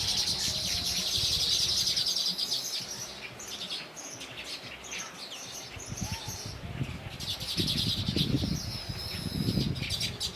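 Small birds chirping rapidly and high-pitched in two dense bouts, one at the start and one near the end, with scattered single chirps between. A low muffled noise sits under the second bout.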